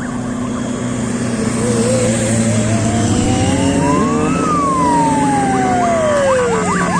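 Vehicle siren sounding a slow wail: one long tone rising for about three seconds, then falling back down, over a steady engine running.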